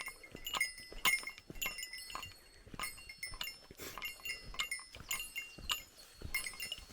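Small metal bell jingling in time with a hiker's steps: a bear bell on a pack, struck a couple of times a second, each strike ringing on briefly at a few high pitches.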